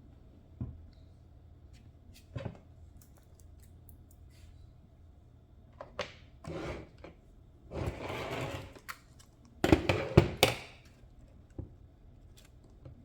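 Small parts being handled during a hand teardown of an RC car: scattered clicks and knocks, a couple of scraping rubs, and a loud clatter of knocks about ten seconds in.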